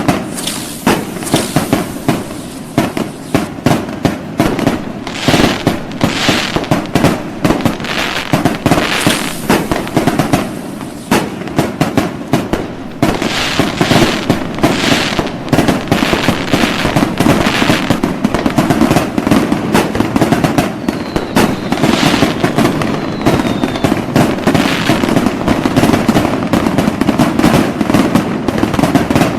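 Fireworks going off in a dense, continuous barrage of rapid bangs and crackles, with a few falling whistles from rising shells.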